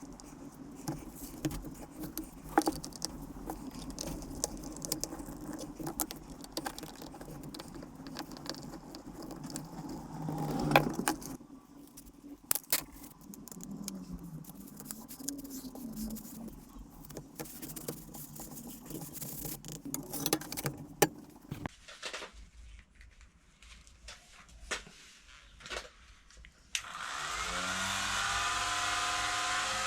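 Scattered clicks, knocks and metallic clinks of tools and parts being handled. Near the end a hand-held electric power tool starts up, its whine rising and then running at a steady pitch.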